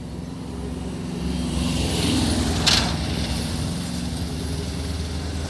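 Motor vehicle passing close by, its engine and tyre noise growing louder to a peak about halfway through, with one sharp knock near the middle.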